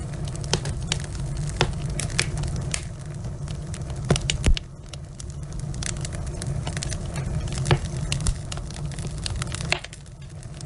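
Wood logs burning in a fireplace: irregular sharp crackles and pops over a steady low rumble of flame, with a cluster of louder pops about four seconds in and another near the end.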